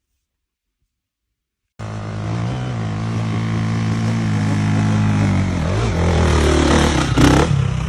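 Silence, then about two seconds in a motorcycle engine cuts in loudly and runs steadily, its pitch dipping a little near the six-second mark, with a short loud noise near the end.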